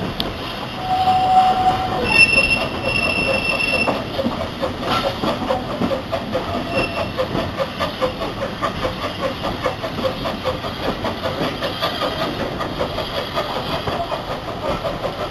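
Steam train on the move on a heritage line. A brief steady high tone comes about a second in and higher squealing tones about two seconds in, then an even, quick rhythmic beat carries on.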